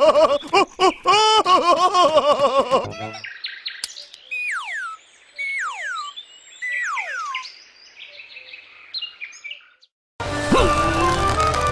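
A high, wavering cartoon voice for the first few seconds. Then quiet cartoon birdsong: three or four sharp tweets, each falling steeply in pitch. Music starts near the end.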